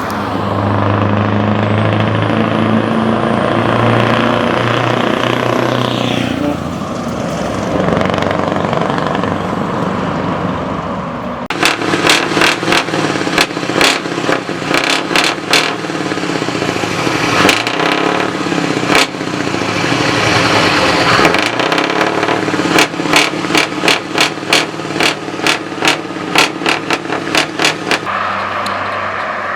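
Scania R620's V8 diesel through a loud pipe: a steady low engine note at first, then from about a third of the way in a long, uneven run of sharp loud pulses with the loudness swinging up and down, before it settles back to a steadier note near the end.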